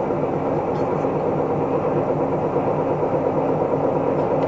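Isuzu Erga Mio city bus's diesel engine running steadily, heard from inside the passenger cabin.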